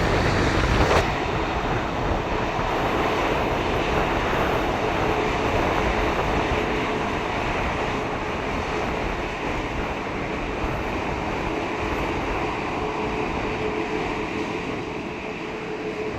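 Jet engines of an Airbus A340-600, four Rolls-Royce Trent 500s, running: a steady broad noise with a faint steady whine, slowly fading, with wind buffeting the microphone.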